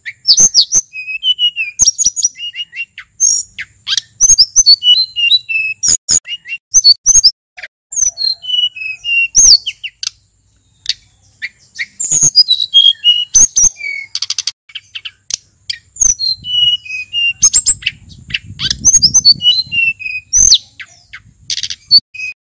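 Male sulingan gunung songbird singing a fast, varied song of sharp chirps and short whistled glides, with a brief pause about ten seconds in.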